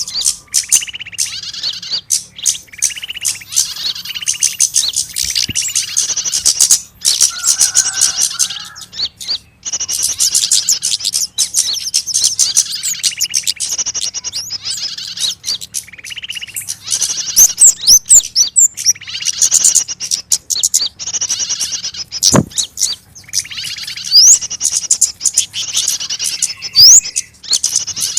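Bird-lure recording of small birds calling in alarm, the 'trapped bird' distress calls used to draw small birds in. It is a dense chatter of rapid high chirps and whistled glides over rows of quickly repeated scolding notes, with brief pauses. A single low thump comes about two-thirds of the way through.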